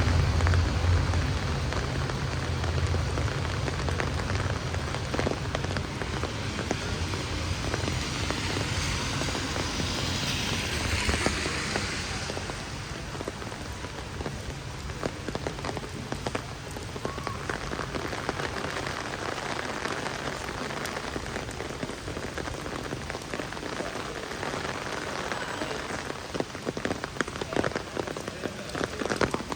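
Heavy rain falling on a city street, a steady hiss dotted with the clicks of individual drops. A vehicle's low hum fades out over roughly the first twelve seconds.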